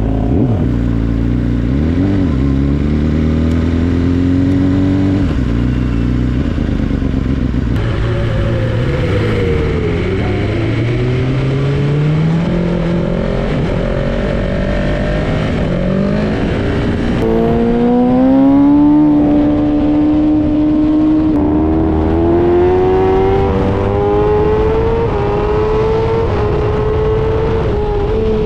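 BMW S1000RR race bike's inline-four engine, heard from on board, pulling away at low revs and then accelerating through the gears. The engine note climbs in pitch through each gear and dips at every upshift.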